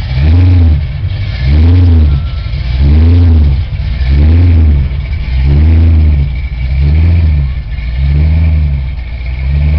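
Supercharged 540 cubic-inch big-block V8 in a 1969 Camaro RS, revved over and over as the car pulls away: about eight loud rises and falls in pitch, roughly one every 1.3 seconds, easing off slightly toward the end.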